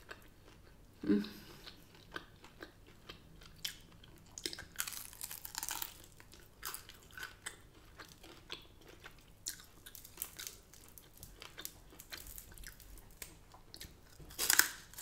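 A person chewing and biting crispy oven-cooked chicken wings and curly fries: many small, irregular crunches and mouth sounds, with a louder crunching bite near the end.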